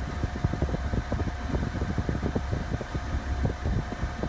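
Air-conditioning blower of a 1972 Mercedes-Benz 220D blowing steadily inside the cabin, with the diesel engine running and a dense, irregular low rumble throughout.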